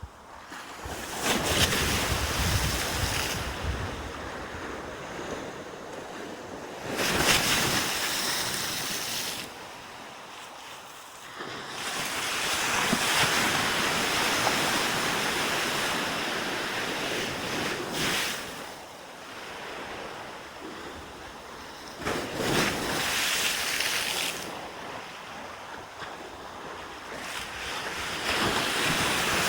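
Sea waves breaking and washing up the beach, a rushing hiss that swells and dies away again every several seconds.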